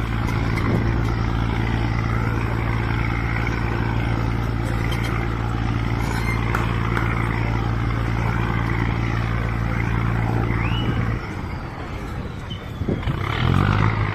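Diesel river-boat engine running loud and steady, dropping away about eleven seconds in. Near the end, an engine rises in pitch as it revs up.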